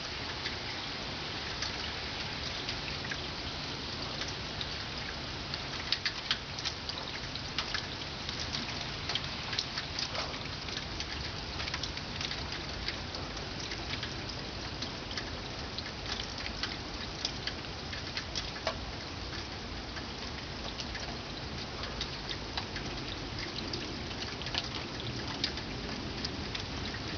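Steady rain falling during a thunderstorm, with many sharp drops tapping close by.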